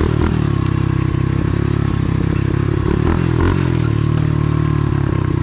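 A 125cc pit bike's single-cylinder four-stroke engine running under way on a dirt trail, its pitch rising and falling as the throttle is worked.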